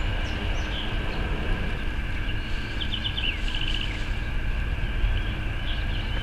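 Outdoor ambience with birds chirping, including a quick run of repeated high notes about three seconds in, over a steady low rumble and a constant high drone.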